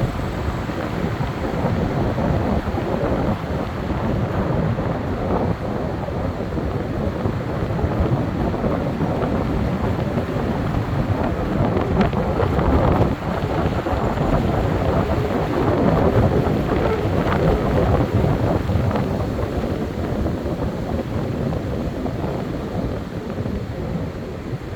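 Wind buffeting the microphone: a loud, steady, rumbling rush that swells and eases.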